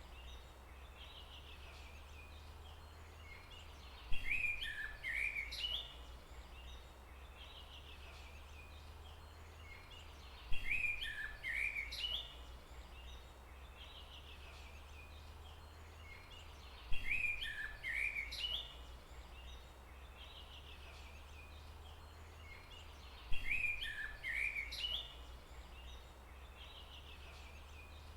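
A songbird singing the same short, chirping phrase four times, about every six seconds, each phrase lasting about two seconds, over a steady low rumble.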